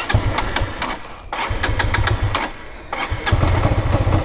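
Motorcycle engine being restarted on a hill: it fires and runs briefly, cuts out twice, then catches about three seconds in and keeps running.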